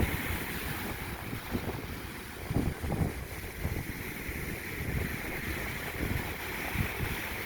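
Wind buffeting the microphone in uneven gusts, over a steady wash of ocean surf.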